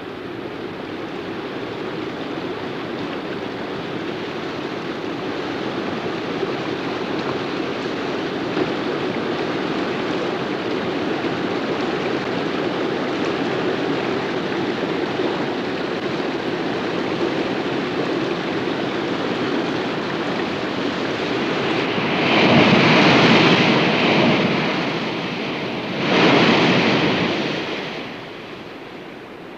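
Rushing water flowing steadily, then two louder waves of surf breaking and washing in, one about two-thirds of the way through and another a few seconds later.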